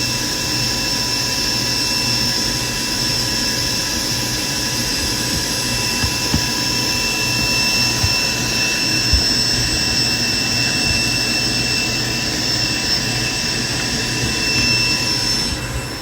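Private jet's engines running steadily: a rushing noise with a high, steady whine that fades just before the end.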